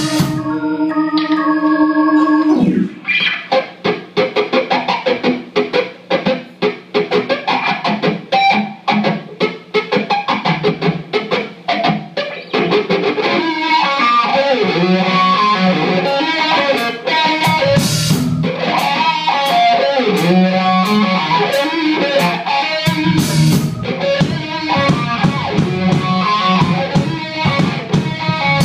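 Live rock band playing: a held organ chord for about two seconds, then an electric guitar playing a fast, rhythmic picked riff, with the rest of the band filling in more heavily about halfway through.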